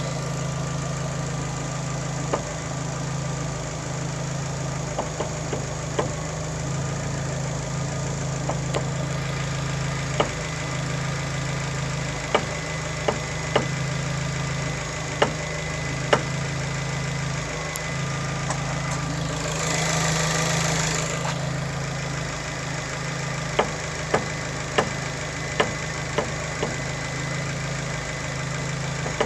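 Fiat Panda's engine idling steadily while the steering is turned, with sharp single knocks, a "doink doink" sound, coming in little clusters from the front suspension: the sign of a worn shock top mount. A brief hiss about two-thirds of the way through.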